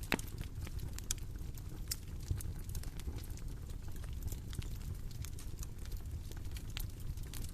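Bonfire crackling: a steady low rumble of burning wood with scattered sharp pops and snaps, one louder pop just after the start.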